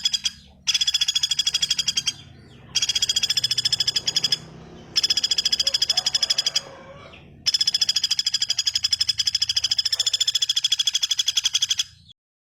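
Recorded bird song: a very fast, rattling high trill given in four bursts of one and a half to four seconds with short pauses between them, cut off sharply near the end.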